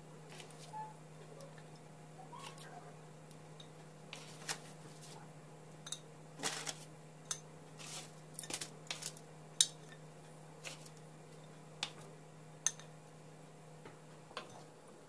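Scattered light clicks, taps and clinks of small hard objects being handled, over a steady low hum.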